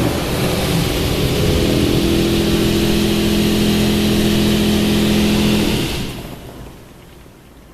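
Ryko Radius HT touch-free car wash spraying the car, heard from inside the car: a loud hiss of water jets with a steady machine hum, both cutting off about six seconds in.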